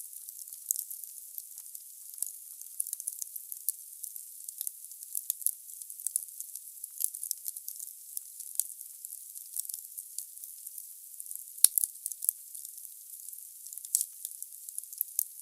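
Wood fire burning in a fireplace: a steady high hiss with frequent small crackles and snaps, and one sharp, loud pop about two-thirds of the way through.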